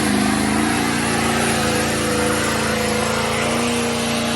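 Ford F250's diesel V8 held at high, steady revs during a burnout, its engine note sitting under a broad rushing hiss of spinning tyres.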